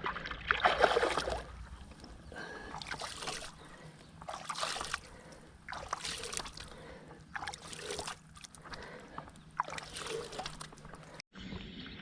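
Water splashing and sloshing in irregular bursts, roughly one a second, loudest at the start, until it cuts off suddenly near the end.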